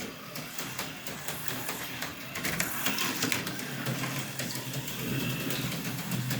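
Tomy AFX HO-scale slot car's small electric motor whirring steadily as the car laps the track. It gets louder for about a second a few seconds in as the car passes close by.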